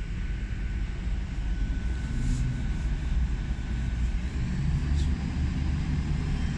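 A Class 800 train's diesel engines running with a steady low rumble as it moves slowly, with a faint steady whine over it for the first half.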